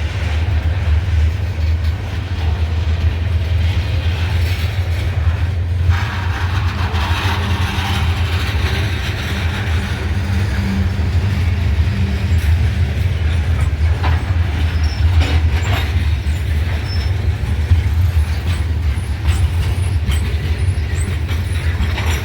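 Freight cars rolling slowly past on the rails: a steady low rumble of wheels on track, with a few sharp clanks in the second half.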